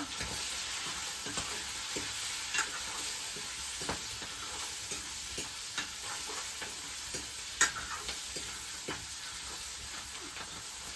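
Food sizzling in a hot pan while it is stirred, a spoon scraping and clicking against the pan now and then, with one sharper knock about seven and a half seconds in.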